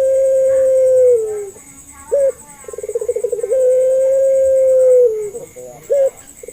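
Puter pelung dove (domestic Barbary dove) cooing in a repeating phrase: a fast stuttering run of coos leading into a long held coo that drops in pitch at its end, then a short separate coo. The phrase comes round about every three seconds, twice here.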